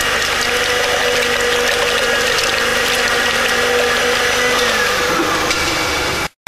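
Kitchen blender running: a steady motor whine over dense churning noise. Its tones slide down in pitch about five seconds in as the motor slows, and the sound cuts off suddenly near the end.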